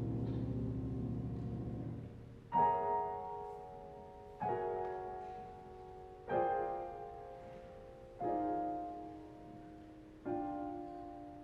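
Grand piano playing a slow introduction: a low held chord fading out, then five struck chords about two seconds apart, each left to ring and die away.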